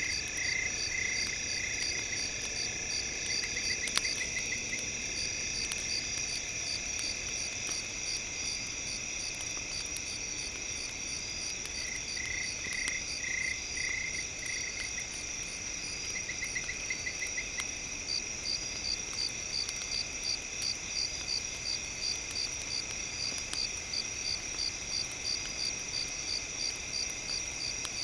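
Crickets and other night insects chirping steadily in several high pitches, with short pulsing trills that come and go. Scattered faint crackles run under them, with one sharp snap about four seconds in, as from a campfire.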